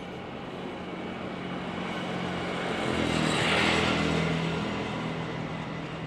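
A motor vehicle passing by: a steady low engine hum that swells to its loudest about three and a half seconds in, then fades away.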